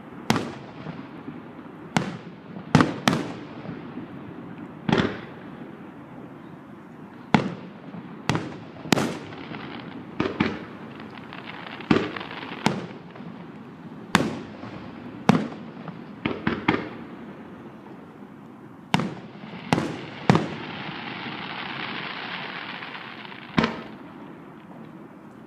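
Fireworks show: aerial shells bursting with sharp bangs, about eighteen at irregular intervals of one to two seconds, each followed by a short echo, over a steady rumble. Near the end a long crackling shower runs for a few seconds after a cluster of bangs.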